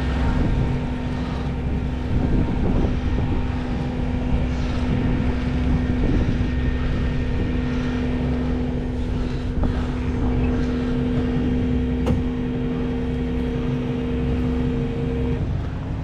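Tow truck's winch pulling a wrecked pickup, with the truck engine running under it: a steady hum over a low rumble that stops shortly before the end, with a few light clanks.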